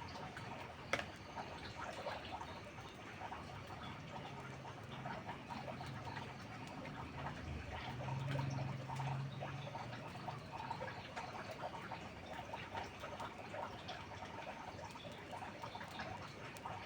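Wood campfire crackling with dense small pops and one sharper snap about a second in, over a steady hiss of rain. A low rumble swells briefly about halfway through.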